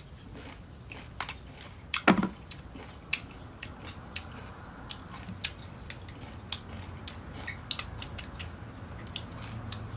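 Crisp unripe mango being bitten and chewed close to the microphone: irregular short crunches and crackles, the loudest about two seconds in.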